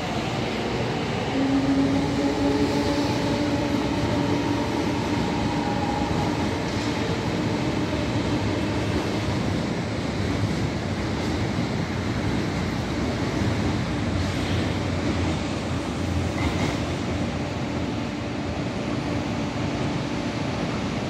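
MTR East Rail line nine-car R-Train electric multiple unit running, a steady rumble of wheels on track with a few steady motor tones that fade out after about eight seconds.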